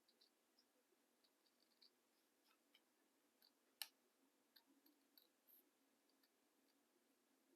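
Faint, scattered snips and clicks of small scissors cutting paper, with one sharper click a little before four seconds in, over near silence.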